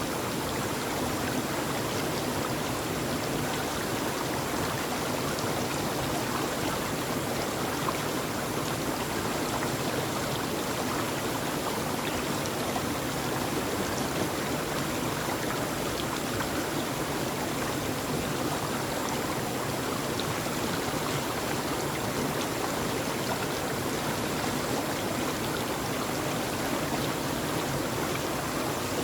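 Steady, even rushing of a flowing stream.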